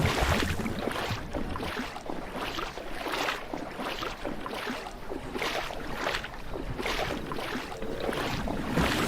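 Floodwater sloshing and splashing in repeated surges, a fresh swell of splashing every half second to a second.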